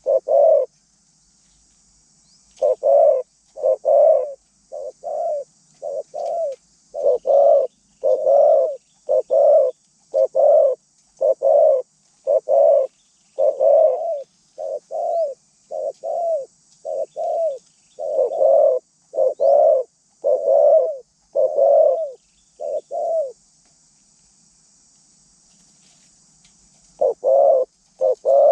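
A dove cooing: a long run of short, low coos, roughly one to two a second. It breaks off briefly about a second in and again near the end.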